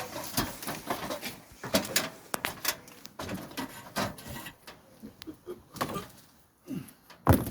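Handling noise of a plastic sheet being laid over a wooden bee box: rustling with many small clicks and knocks, and one sharper knock near the end.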